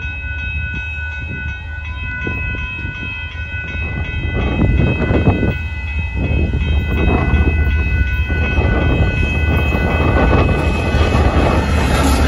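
Union Pacific freight train with diesel-electric locomotives approaching a grade crossing. The low engine rumble grows louder over the first few seconds and stays loud as the lead locomotive reaches the crossing. A steady high ringing tone sounds over it and fades out about six seconds in.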